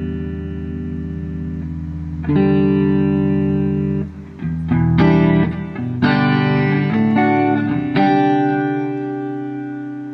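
Electric guitar playing ringing chords: a new chord struck about two seconds in, a quick run of notes in the middle, then two more chords that ring on and fade near the end.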